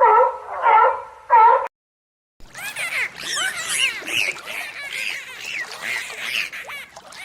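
Animal calls: a repeated wavering call breaks off about a second and a half in. After a short silence comes a dense chorus of many animals calling at once in quick, overlapping chirps.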